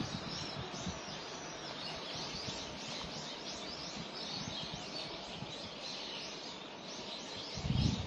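Small songbirds chirping, many quick high chirps one after another, over a steady outdoor hiss. A low rumble comes in near the end.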